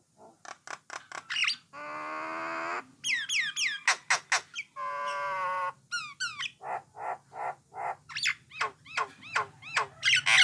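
Jalak nias (brown myna) singing a varied song: quick clicks, two long harsh buzzy notes, and runs of short falling whistles that speed up near the end.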